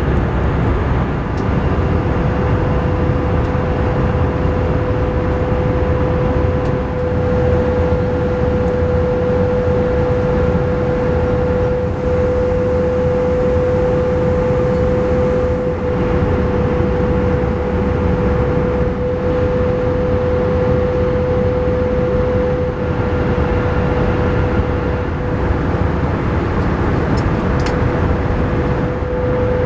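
Steady cabin noise inside an Airbus A318 airliner: a constant low rumble of airflow and engines with a steady hum held at one pitch.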